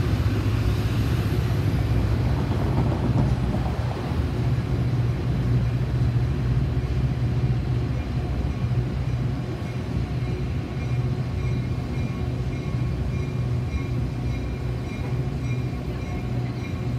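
Metra commuter train on the elevated tracks: a steady low engine hum with the rumble of the train, a little louder in the first few seconds, then settling to an even level.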